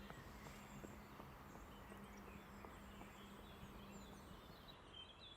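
Near silence with faint birdsong: scattered short chirps over a low background hiss, more of them near the end.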